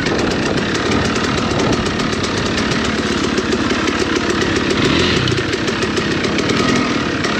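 Two-stroke dirt bike engine running steadily, with an even rapid pulse.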